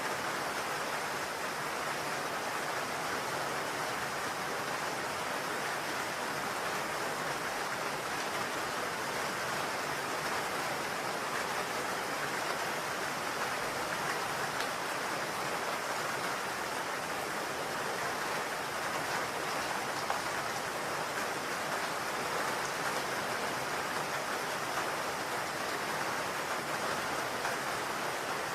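Steady rain falling on a roof, an even wash with faint scattered drop ticks.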